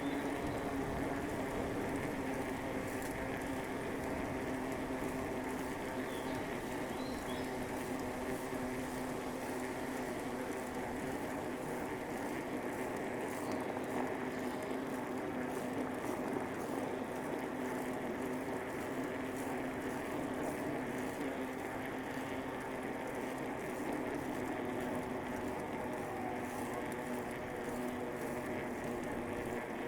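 A bicycle riding along, with a steady, even hum from the moving bike.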